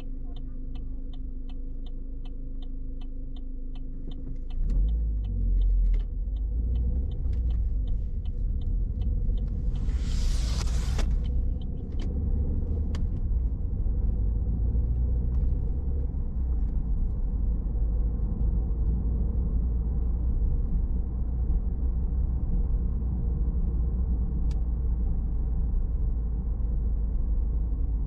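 Car interior: a turn signal ticking about twice a second while the car sits with the engine running, then the car pulls away about four seconds in and steady engine and road rumble takes over, with a brief hiss about ten seconds in.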